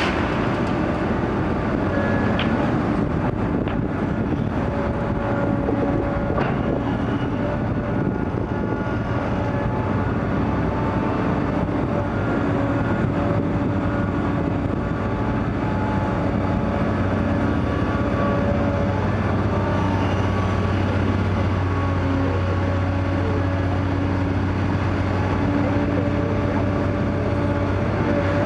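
Komatsu PC800 hydraulic excavator working: its diesel engine runs steadily under load, with whining tones that shift in pitch as the hydraulics move. A few faint knocks are heard, and the engine drone grows heavier in the second half.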